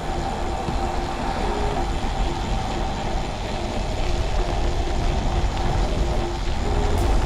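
Wind rushing over the microphone and tyre noise from a loaded road bike riding fast downhill, steady throughout, with a faint wavering tone underneath.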